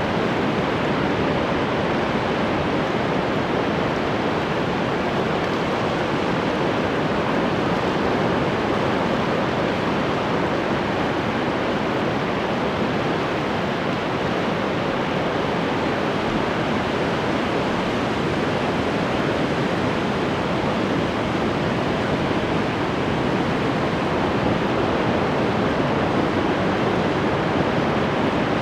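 Ocean waves breaking and washing on the shore in a steady, continuous rush of surf, with no distinct single wave crashes standing out.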